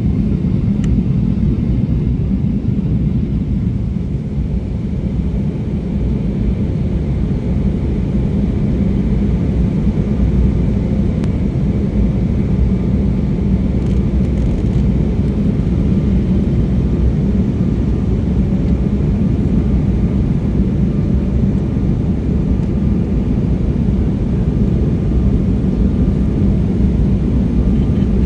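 Steady in-flight cabin rumble of an Embraer E175 airliner: the drone of its two General Electric CF34 turbofans and the airflow over the fuselage. It is a deep, even roar, heard from inside the passenger cabin.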